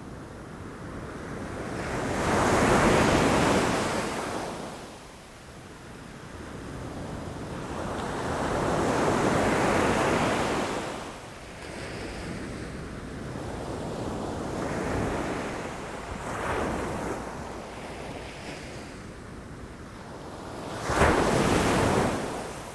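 Ocean waves breaking against rocks, each surge swelling and then washing away every few seconds; the sharpest and loudest wave breaks near the end.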